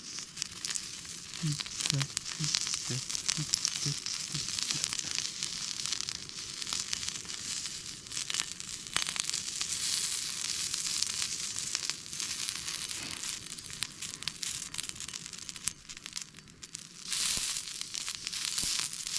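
Octopus-cut wieners sizzling and spitting in a hot frying pan, a steady crackling hiss dotted with small pops.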